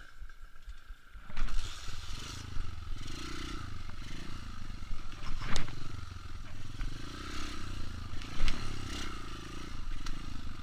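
Trail motorcycle engine running with the revs rising and falling as the bike is ridden over rough ground, with rattling and sharp knocks from the bike about halfway through and again later.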